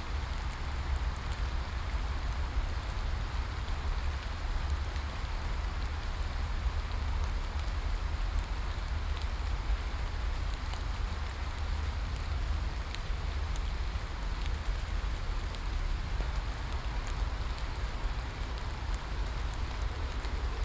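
Steady rain: a continuous hiss with scattered faint drop ticks over a constant low rumble.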